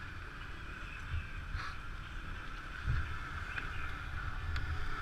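Motor scooter on the move: wind buffets the microphone in an uneven low rumble over a steady engine drone, with a few bumps along the way.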